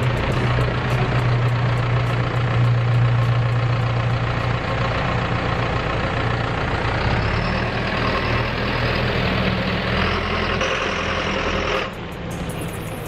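John Deere tractor's diesel engine running steadily as the tractor is driven, its level dipping somewhat near the end.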